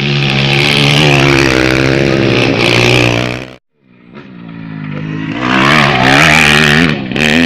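Motocross dirt bike engines revving hard at high rpm, pitch rising and falling through gear changes. The sound cuts off abruptly about three and a half seconds in, then another engine builds back up loudly.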